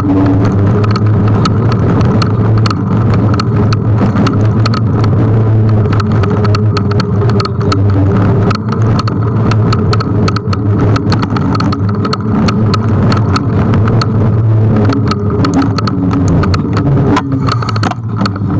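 Riding noise of a Kugoo G1 electric scooter: a steady low rumble with a hum, crossed by frequent sharp clicks and rattles.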